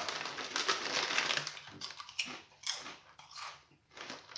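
A person chewing multigrain crisps close up: a dense crackling crunch at first, then separate crunches about half a second apart, growing fainter.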